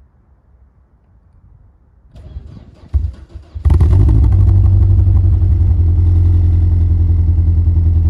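A Volvo's engine cold-started after standing three weeks: about two seconds in, the starter cranks on a slightly weak battery for about a second and a half, then the engine catches at once and runs at a steady idle.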